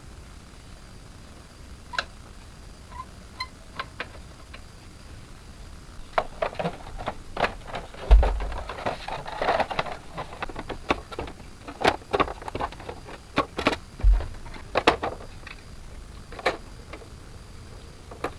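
Irregular clicks and light knocks, sparse at first and then coming thick and fast from about a third of the way in, as of hand tools and small parts being handled, with three dull low thuds.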